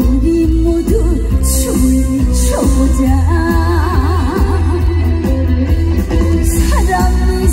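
Live trot song: a woman singing a melody with a wide, wavering vibrato over a band with a heavy, steady bass.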